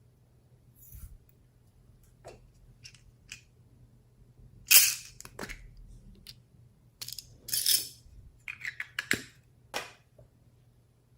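Slime being mixed and pressed by hand, giving scattered sticky clicks and crackling pops, the loudest a little under halfway through.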